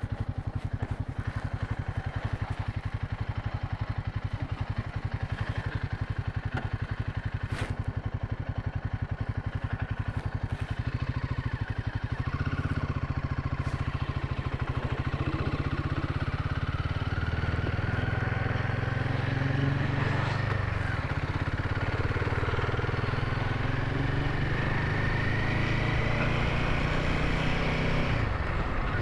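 Royal Enfield Himalayan 450's single-cylinder engine running while the motorcycle is ridden. About halfway through it gets louder and its pitch climbs slowly as the bike speeds up, with a brief drop near the end.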